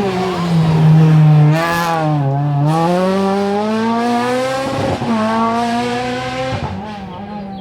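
Rally car engine at high revs as the car passes on a special stage. About two seconds in, a brief rush of noise comes as it lifts off and the revs dip; then it accelerates hard with steadily rising revs, and fades away as the car drives off.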